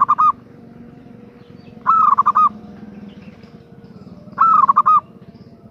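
Female zebra dove (perkutut) calling for a male: three short calls about two and a half seconds apart, each a quick run of rolling coo notes.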